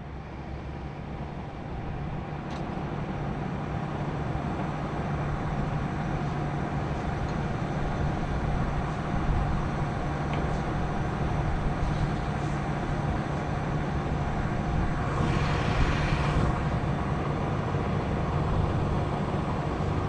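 Crane engine running steadily as it slowly hoists the load, its drone building over the first few seconds and then holding. A brief hiss comes about fifteen seconds in.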